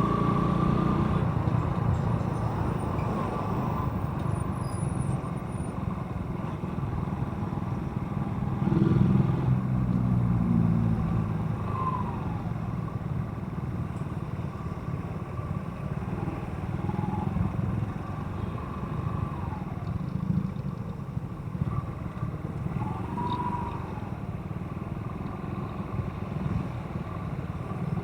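Motorcycle engine running steadily while riding in traffic, with road and wind noise. It gets louder for a couple of seconds about a third of the way in.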